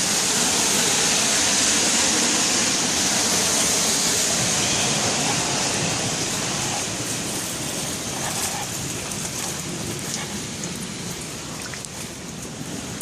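Steady rain falling, an even hiss that eases somewhat in the second half, with a few faint ticks of drops near the end.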